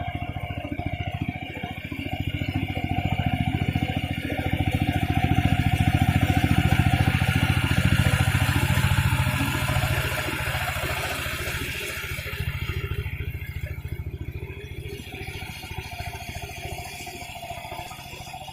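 Mini tractor's small engine running with a rapid, even chugging. It grows louder over the first few seconds, is loudest around the middle, then slowly fades.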